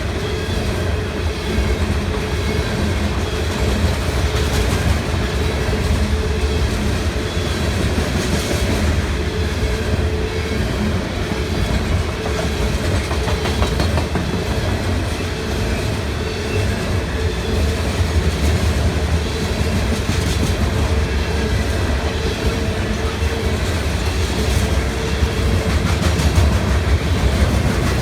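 Cars of a CSX coal train rolling past, steel wheels clicking over the rail joints in a steady clickety-clack over a continuous low rumble.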